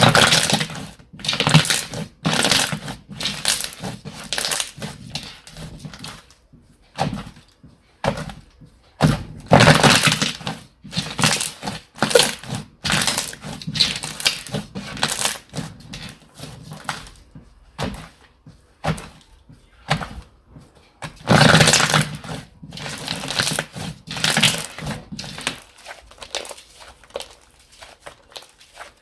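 Hands squeezing, poking and stretching slime, making irregular crackly, popping sounds in uneven spells a second or two long. The loudest spells come near the start, around the middle and about three quarters of the way through.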